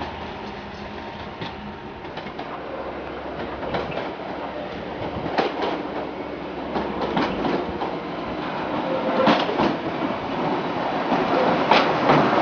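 A 1938 tube stock electric train draws in along the platform, its wheels clicking over the rail joints. The sound grows steadily louder as it nears, with the clicks coming in close pairs toward the end.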